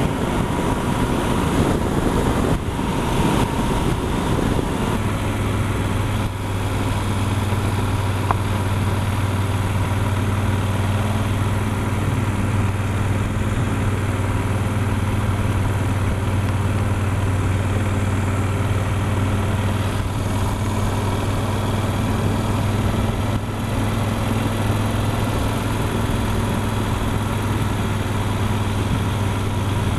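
Yamaha Super Ténéré's 1200 cc parallel-twin engine running steadily while riding, heard from a helmet-mounted camera. Wind rush on the microphone fills the first few seconds, then drops away about five seconds in, leaving a steady low engine drone.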